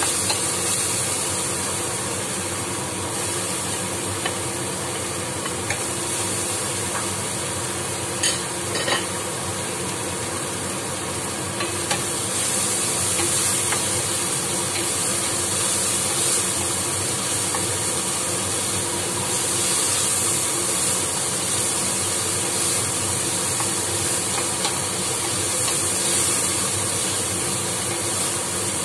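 Chopped aromatics and green vegetables sizzling as they fry in a nonstick pan, stirred with a wooden spatula. There are a few sharp taps of the spatula on the pan about eight seconds in.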